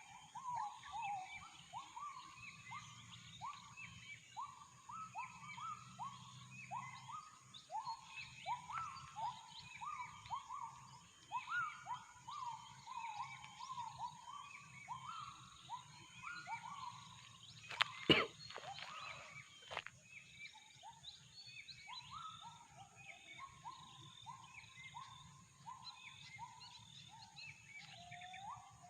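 Gibbons (uwa-uwa) calling in a long run of rising, hooting notes, about two a second, over a steady high hiss and fainter bird calls. A single sharp knock comes about eighteen seconds in.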